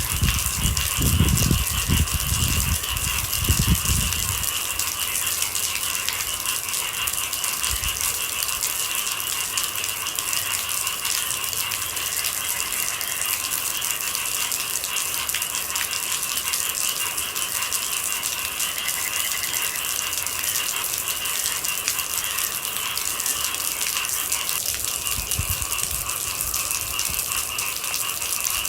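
Steady, dense rain pattering. Low rumbles come during the first few seconds and briefly again near the end.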